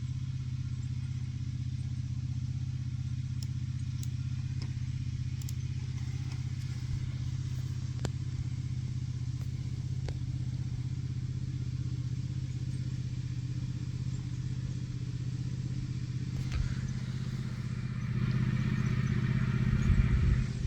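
Small petrol engine of a lawn tractor converted into an autonomous mower, running at a steady speed with a low hum. It grows louder near the end.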